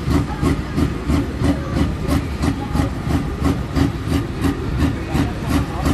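Heavy pulling-tractor engine idling with an even, lumpy pulse about three times a second, with a hiss over it.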